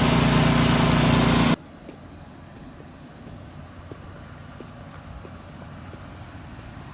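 Gas engine of a power-washing rig running steadily and loudly, then stopping abruptly about a second and a half in, leaving a faint low hum with light ticks.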